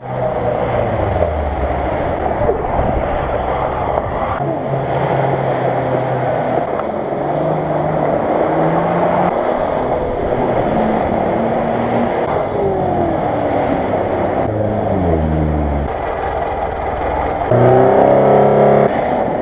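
Off-road 4x4 engines revving hard under load while the vehicles churn through deep mud and water, with splashing and sloshing. The engine pitch rises and falls over and over, and one engine revs louder for over a second near the end.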